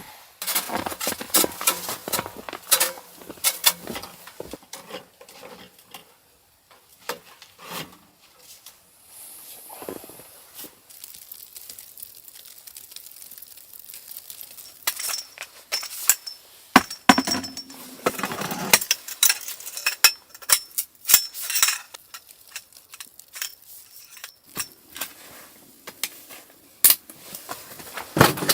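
Repeated clinks and knocks, busy at first, sparse for several seconds in the middle, then busy again.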